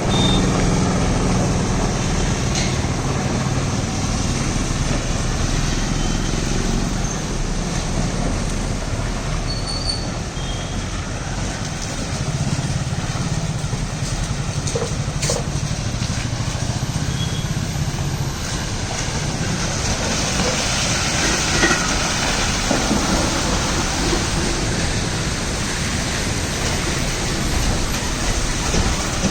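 Loaded Ashok Leyland lorry's diesel engine running under load with a steady low drone as the truck drives over a broken, rough road.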